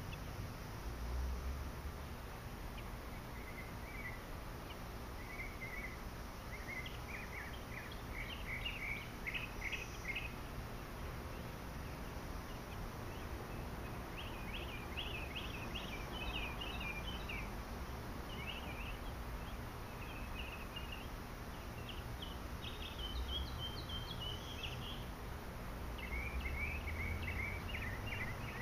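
Birds chirping: several runs of quick, high chirps over a low, steady rumble.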